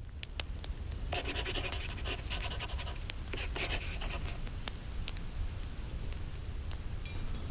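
Wood fire crackling, with irregular sharp pops and a few short, denser bursts of crackle, over a steady low rumble of winter wind.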